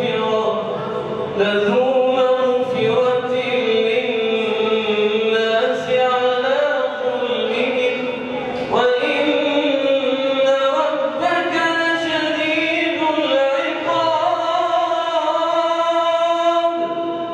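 A man reciting the Quran in the melodic chanted style (tajwid), holding long drawn-out notes that bend in pitch, with a short pause for breath about halfway through.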